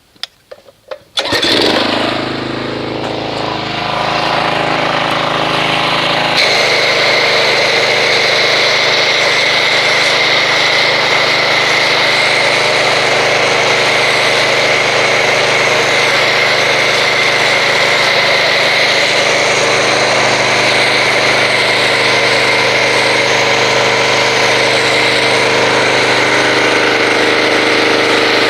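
Pressure washer starting with a couple of clicks and then running with a steady drone. About six seconds in, a loud steady hiss joins it as the foam cannon starts spraying soap foam.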